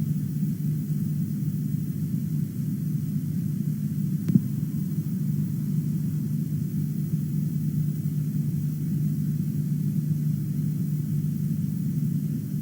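A steady low rumble or hum, with a single sharp click about four seconds in.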